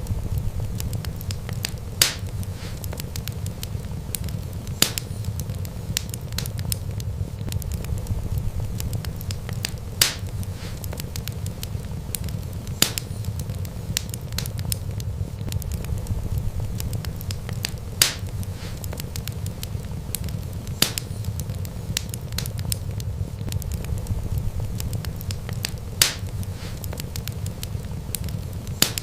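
Wood fire burning, with a steady low rumble of flames, a constant fine crackle and a sharp, loud pop every few seconds.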